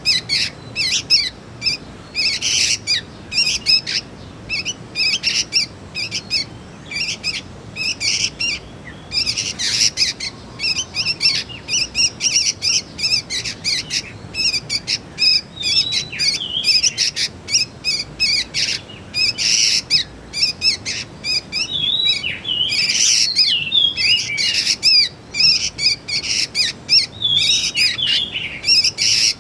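Young sooty-headed bulbuls (kutilang) chirping in a rapid, unbroken chatter of short, high notes. From about halfway through, short sliding whistled notes mix in.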